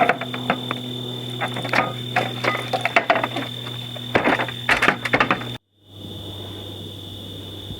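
A run of irregular clicks and knocks from things being handled, over a steady low hum. The clicks stop suddenly about five and a half seconds in, and after a brief dropout only the steady hum goes on.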